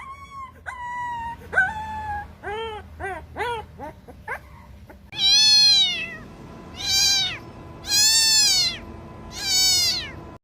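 Cat meowing over and over: a run of short, quick meows, then four longer, louder meows about a second and a half apart.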